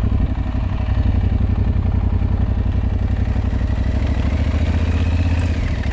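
Aprilia Tuareg 660 parallel-twin engine running at a steady pace while riding off-road.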